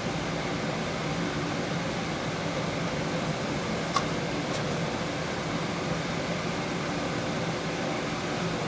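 Steady background hum and hiss, with a sharp click about four seconds in and a fainter one just after.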